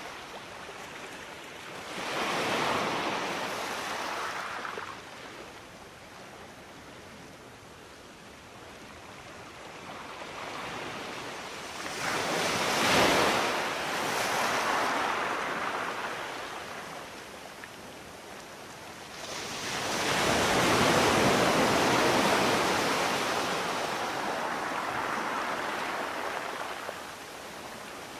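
Ocean waves breaking and washing up on a shore, in three slow surges that swell and ebb, the last one the longest.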